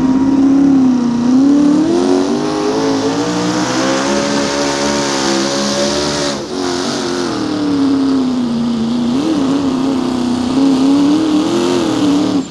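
Mini Rod pulling tractor's turbocharged small-block engine running at full throttle under load while pulling the sled. Its pitch climbs over the first six seconds, drops sharply about six and a half seconds in, wavers up and down, and falls away abruptly at the very end.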